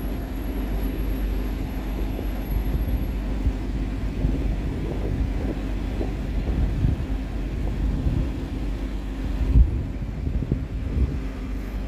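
Volvo FH16 truck's diesel engine running with a steady low rumble and a brief low thump near the end.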